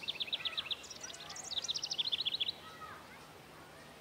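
Songbird singing two fast trills of high, rapidly repeated notes; the second trill stops short a little past halfway. Fainter calls from other birds sound behind it.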